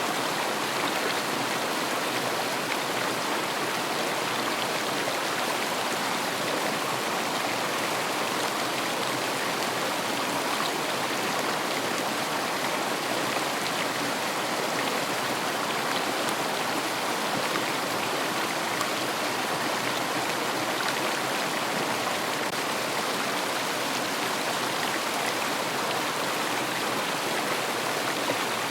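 River water flowing steadily, an even, unbroken rush of water with no separate splashes or other events.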